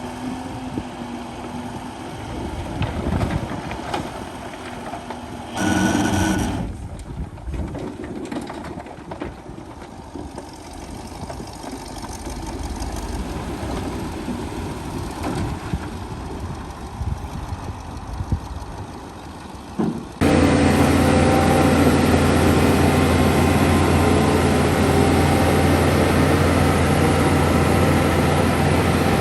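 Heavy earthmoving machinery's diesel engine running, with a brief louder burst about six seconds in. About twenty seconds in the sound switches abruptly to a louder, steady engine drone.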